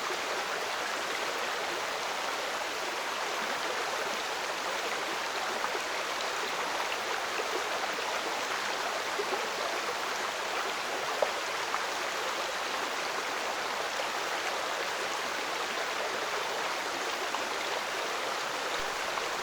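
Stream water running over rocks, a steady, even rush of flowing water.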